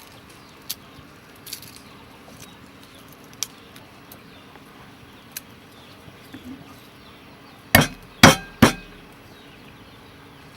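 A knife chopping on a cutting board: three loud, sharp strikes in quick succession near the end, after a few faint clicks and taps.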